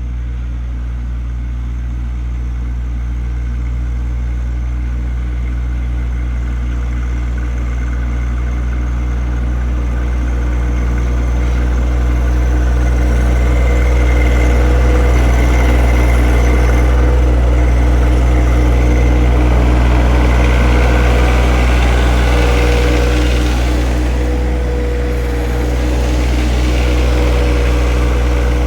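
John Deere 1025R compact tractor's three-cylinder diesel engine running steadily at working speed, growing slightly louder over the first half and easing briefly near the end. A high whine joins it from about halfway, coming and going.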